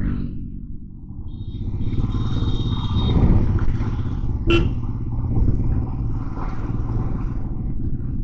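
Motorcycle engine running steadily while riding in city traffic, with the noise of surrounding traffic swelling from about two seconds in. There is a brief high tone early on and a sharp click about four and a half seconds in.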